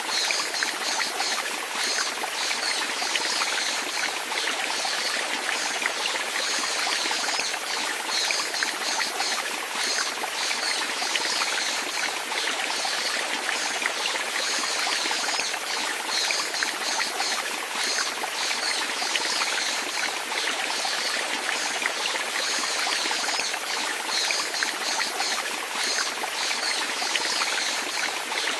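Running water flowing steadily, with fine splashing throughout and no pauses.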